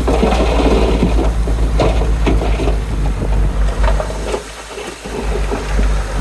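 Komatsu D31P crawler bulldozer working, its diesel engine running steadily under many irregular knocks and rattles. The engine eases off briefly about four and a half seconds in, then picks up again.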